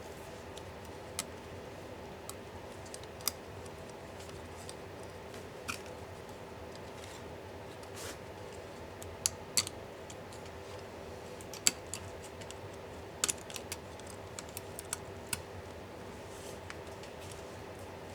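Irregular small clicks and taps of hand tools and parts being handled while a laptop is taken apart, with a few sharper clicks in the middle stretch. A steady hum runs underneath.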